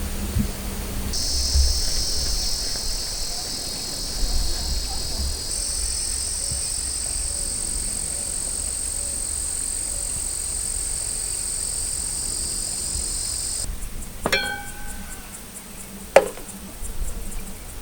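High-pitched, steady chirring of crickets or other night insects. It starts and stops abruptly, cutting off about fourteen seconds in. Then come two sharp clinks that ring briefly, like a metal utensil or dish being struck.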